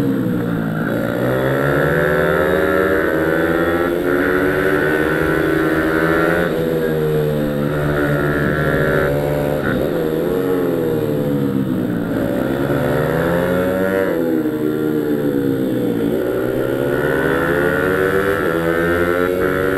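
Pit bike's small single-cylinder engine being ridden hard, accelerating and easing off again and again: its pitch climbs, then drops away and climbs again every two to five seconds.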